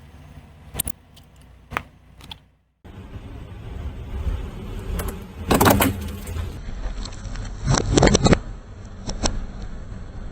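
A car's low running rumble with a few sharp clicks, then, after an abrupt cut, louder clusters of sharp cracking and clattering impacts as the car runs into or over objects.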